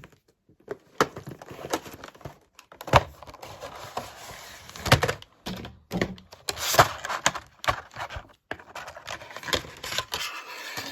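A boxed model locomotive being unpacked by hand: irregular clicks and knocks of the plastic tray and box, with bouts of plastic crinkling.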